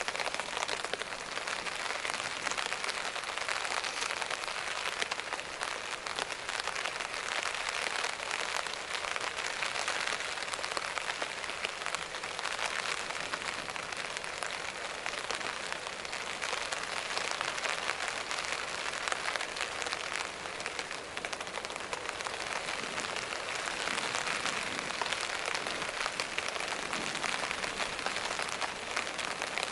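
Steady rain falling, a dense, even patter of drops that keeps up without let-up.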